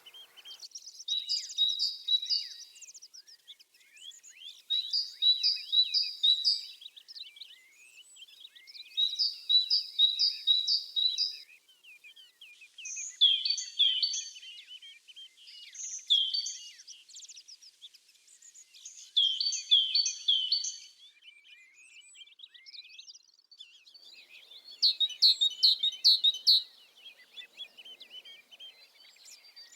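Songbird singing: short phrases of several quick, high repeated notes, one about every four seconds, the note shape changing partway through.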